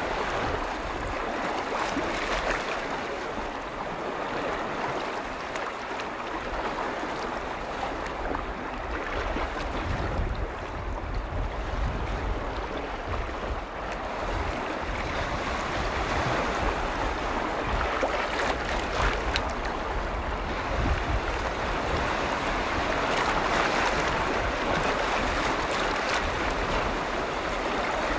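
Waves on a large freshwater lake, washing and lapping continuously in a steady, even rush, with an irregular low rumble of wind on the microphone.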